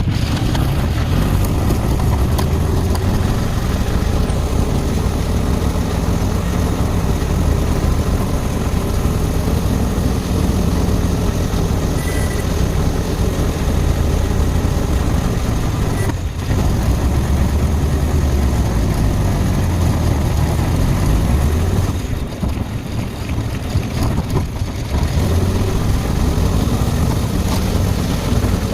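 Steady engine and road noise of a vehicle on the move, a constant low rumble that eases a little about 22 to 25 seconds in.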